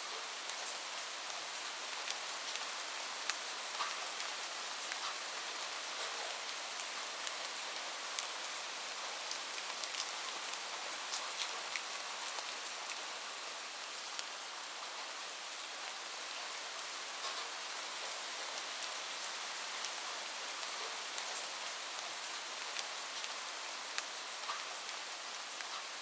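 Steady rain falling on a roof: an even hiss with many individual drops ticking sharply on the surface. No thunder.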